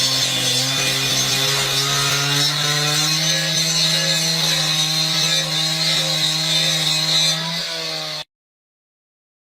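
Two-stroke chainsaw engine held at full throttle after revving up, running at a steady high pitch, then stopping abruptly about eight seconds in.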